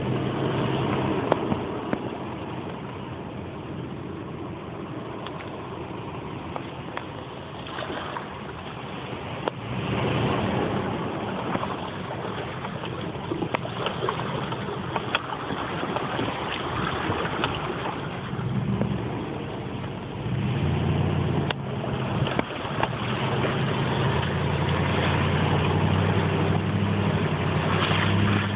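Nissan Titan pickup's V8 engine pulling at low speed through a shallow creek, with water splashing and a few sharp knocks from the tyres over rocks. The engine grows louder about two-thirds of the way through.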